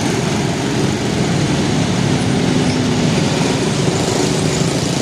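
Steady engine noise of motor vehicles running at a railway level crossing, with a faint held tone for about a second near the middle.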